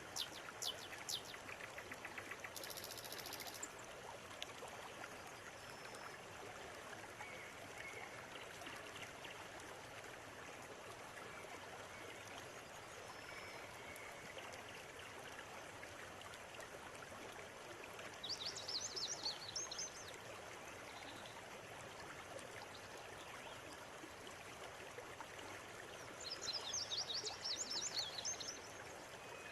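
River water flowing steadily, with birds calling over it: quick runs of high chirps right at the start, about two-thirds of the way in and again near the end.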